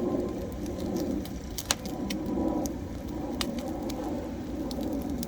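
Wood fire burning with a steady low rumble, and scattered sharp crackles and pops from the burning firewood; the loudest pop comes a little under two seconds in.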